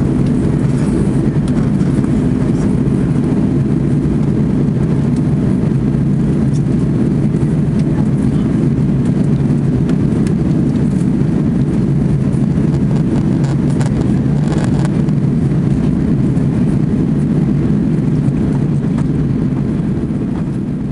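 Steady low drone inside the cabin of an Airbus A340-600, the noise of its four Rolls-Royce Trent 500 engines and the airflow. It begins to fade out near the end.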